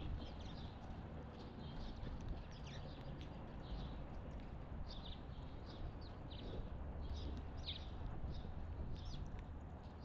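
Wild songbirds chirping and calling, many short overlapping chirps all through, over a steady low rumble.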